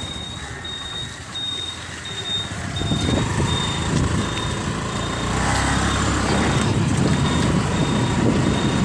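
Motorbike riding along, its engine and road noise growing louder about three seconds in, with a thin high electronic beep repeating evenly about twice a second.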